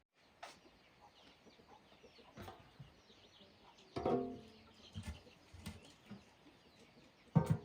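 Chickens clucking, with small birds chirping in the background; the loudest call comes about four seconds in, and two more come near the end.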